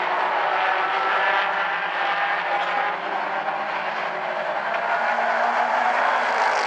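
A pack of mini stock race cars running together at racing speed. Several engines' tones overlap in a steady drone.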